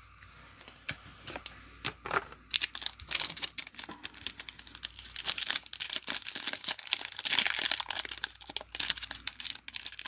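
Foil wrapper of an NFL trading-card pack crinkling and tearing as it is opened by hand. It starts with a few scattered crackles, then becomes a dense run of crinkling about two and a half seconds in, loudest near the end.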